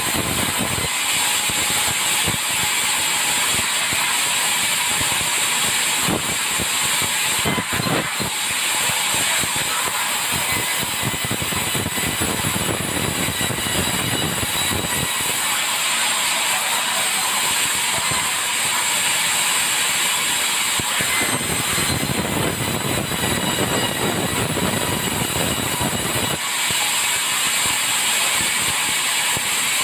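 Sawmill saw blade cutting tropical hardwood timber, a loud continuous machine noise with a strong high hiss. Its lower part fades and comes back every few seconds as the cuts go on.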